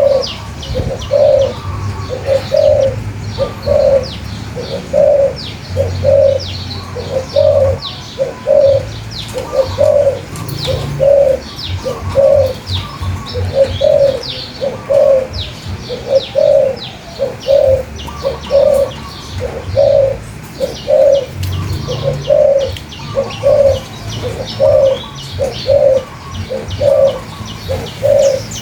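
A dove cooing over and over, about one and a half low coos a second, while small birds keep up quick high chirps above it.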